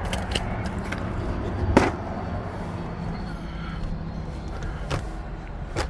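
A few sharp knocks and clicks, the loudest about two seconds in, over a steady low hum.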